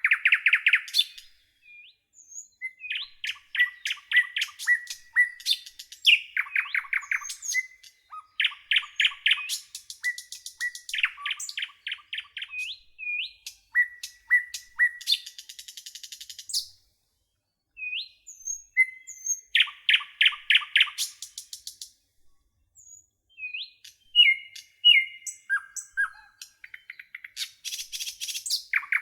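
Songbirds singing: rapid trilled phrases of about a second each, repeated over and over, with short chirps, whistles and high buzzy trills between them and a couple of brief pauses.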